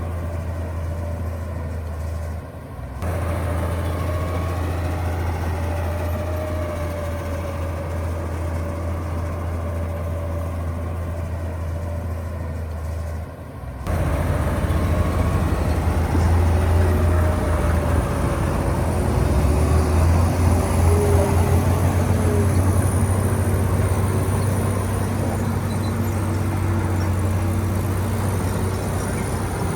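Diesel engines of heavy earthmoving machinery running under work, with a steady low drone. The sound changes abruptly twice, about two and a half and thirteen and a half seconds in. After the second change it is louder, with a faint high wavering whine above it.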